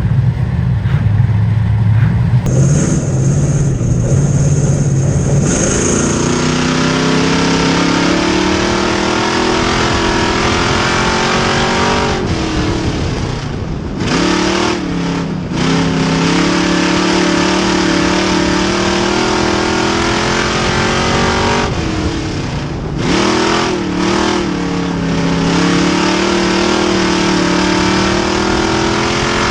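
Race car engine running hard on track, winding up a few seconds in and then holding a steady high note. The note drops and climbs back about halfway through and again near the end, as the car lifts off for the turns and gets back on the throttle.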